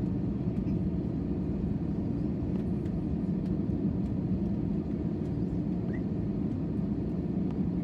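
Steady low rumble of a jet airliner heard from inside the cabin, engines and airflow running evenly without rising or falling.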